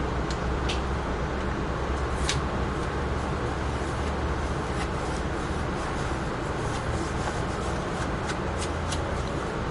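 An Amtrak Northeast Regional passenger train running at speed, heard from on board: a steady low rumble of wheels on rail, with irregular sharp clicks and ticks scattered through it, the loudest about two seconds in.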